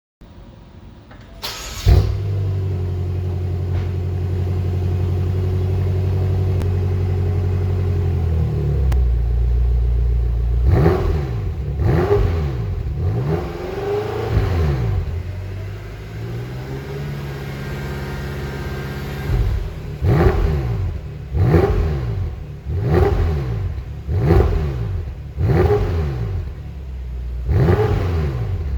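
A V8 car engine starting about a second and a half in and flaring, then running at a fast idle that drops to a lower idle. The throttle is then blipped over and over, giving a string of quick revs through the exhaust, about seven of them close together near the end.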